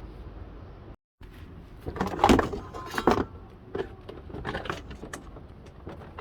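Metallic clinking and rattling in several clusters, loudest about two to three seconds in, over a low steady hum. The sound drops out completely for a moment about a second in.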